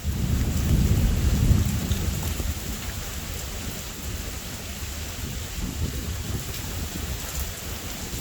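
Steady rain falling in a thunderstorm, with a low rumble of thunder that swells over the first second or so and fades away.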